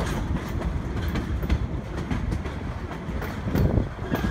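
Narrow-gauge passenger train in motion: a steady low rumble of the coach running on the rails, with irregular clicks from the wheels.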